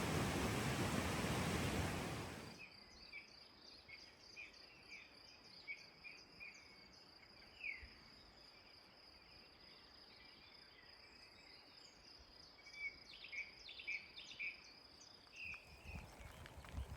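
A loud even hiss cuts off abruptly about two seconds in. After it, an insect's steady high-pitched trill runs on, with short bird chirps scattered through it, before other rustling sounds come in near the end.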